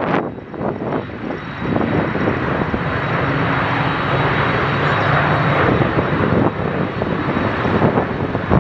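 An airliner's engines rushing loudly as the aircraft passes, building a couple of seconds in and easing off near the end, with wind buffeting the microphone at the start.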